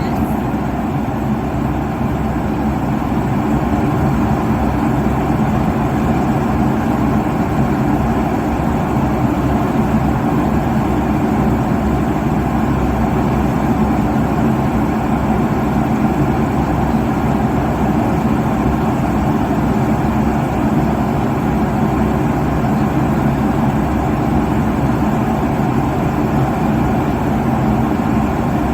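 Airliner cabin noise at cruise altitude: a steady, loud rush of jet engine and airflow noise, deepest in the low end, with a faint steady hum and no changes.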